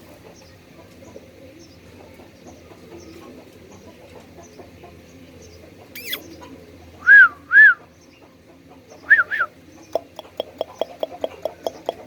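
Pet parrot calling: two loud arched squawks that rise and fall in pitch, then a quicker pair about a second and a half later, followed by a fast run of clicks, about six a second, near the end.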